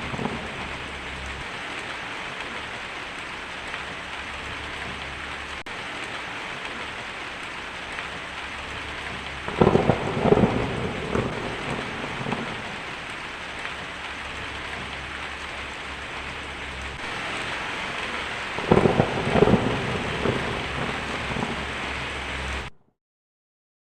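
Steady rain with thunder rumbling twice, about ten seconds in and again near the end. The sound then cuts off suddenly.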